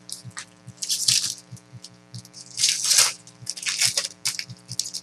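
Foil trading-card pack wrappers crinkling and tearing as packs are opened and the cards handled, in three main rustling bursts with small ticks between, over a steady low hum.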